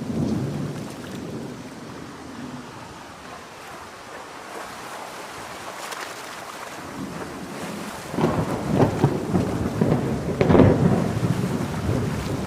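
Thunderstorm with steady heavy rain. Thunder rumbles low near the start, and a louder, crackling peal of thunder rolls in about two-thirds of the way through, loudest shortly before the end.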